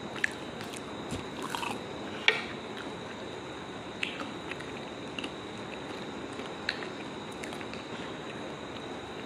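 Chewing and biting of syrup-soaked jalebi: scattered short mouth clicks and smacks over a steady background hiss, the sharpest a little over two seconds in.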